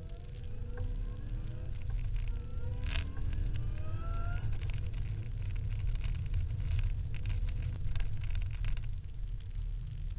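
Car engine heard from inside the cabin, rising in pitch as the car accelerates, with a gear change about two seconds in, then rising again until about four and a half seconds in. It then settles into a steady run with a strong low rumble of engine and road noise.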